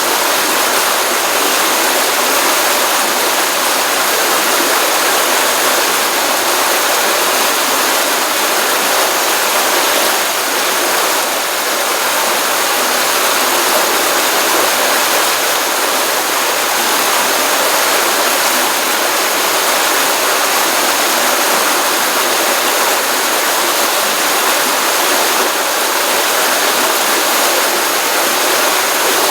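Pond stream water running and splashing in a steady, continuous rush, full after a rainstorm.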